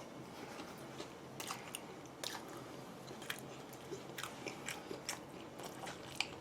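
A person chewing and biting food, with faint scattered small crunches and wet clicks.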